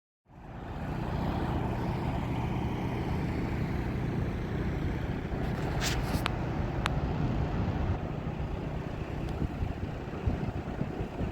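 Steady low rumble of vehicles, such as big rigs idling and moving, with a low hum running through it. A few sharp clicks come about six to seven seconds in.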